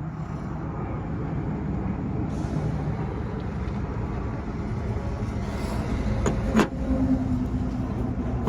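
Parts of a Stripmeister wire stripper being handled and fitted back together, with a sharp click about two-thirds of the way through, over a steady low rumble.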